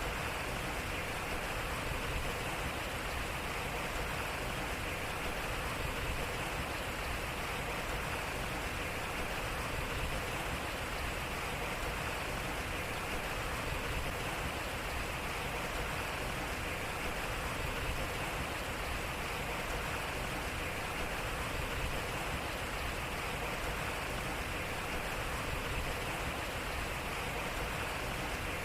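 Water flowing and splashing off a turning waterwheel: a steady, even rushing.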